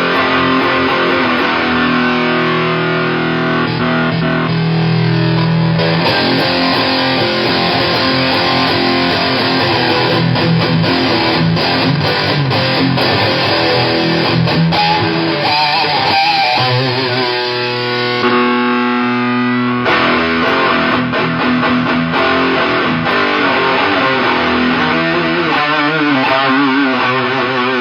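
Electric guitar played through a Shroot fuzz driving a 77 Fuzz Blender into an Orange Super Crush 100 amp: continuous heavily distorted, fuzzy riffing, with a brief held note partway through.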